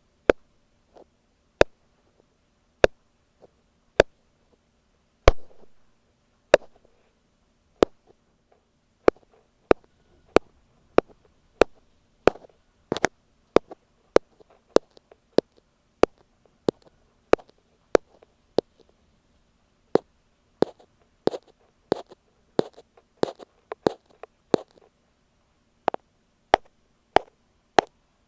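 Ear pick tapping directly on an earphone microphone: sharp, close taps over a faint steady hum. The taps come about a second apart at first, then faster, two or three a second, from about nine seconds in.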